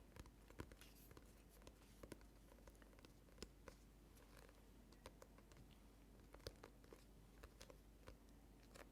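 Faint, irregular clicks and taps from close-miked ASMR trigger sounds, a couple each second.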